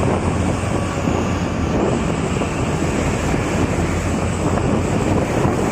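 Moving truck: a steady low engine drone with road and wind noise, and wind buffeting the microphone.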